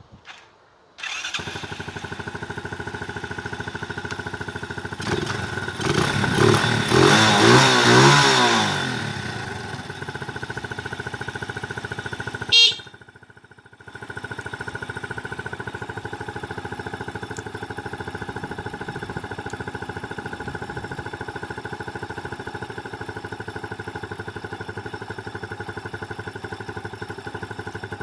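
Motorcycle engine starting about a second in and idling, then revved up and back down to idle. About twelve seconds in it cuts out after a sharp click, starts again a second later and settles into a steady idle.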